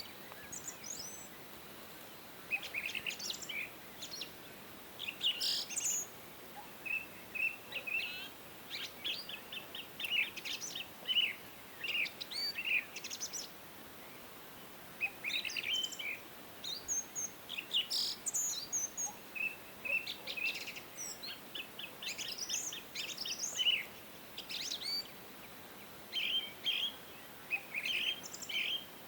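Several songbirds chirping and singing in short, irregular phrases of quick high notes and trills, over a faint steady hiss of background noise.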